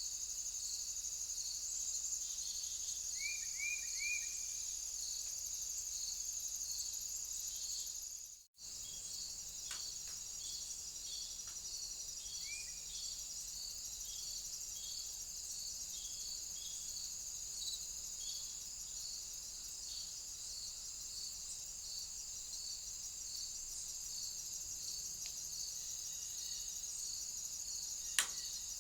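Crickets chirping steadily: a continuous high trill with a lower chirp repeating a little more than once a second. A bird gives three quick falling notes about three seconds in and one more near twelve seconds. The sound drops out for an instant at about eight and a half seconds, and there is a single sharp click near the end.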